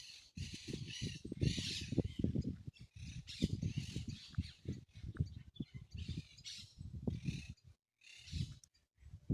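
Birds chirping and calling over a loud, choppy low rumble. The sound cuts out briefly twice near the end.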